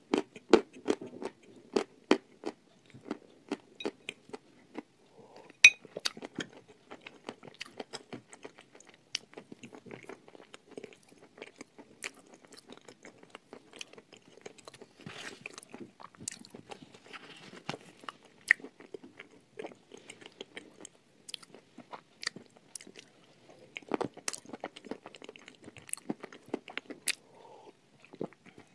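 A person crunching and chewing pieces of chalk close to the microphone. Dense, sharp crunches come in the first couple of seconds, then softer chewing with scattered crunches, and another run of loud crunches near the end.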